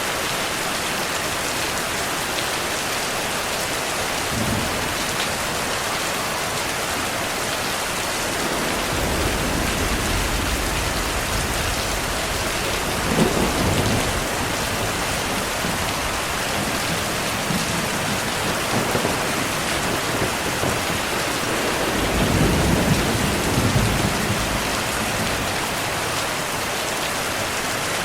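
Steady heavy rain with rolling thunder: low rumbles swell in about a third of the way through, with a sharper peak around the middle and another long rumble late on.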